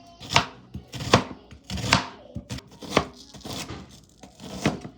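Chopped bell peppers being tipped and tapped off a cutting board into a pan of raw meat: about five sharp knocks against the board, spaced unevenly.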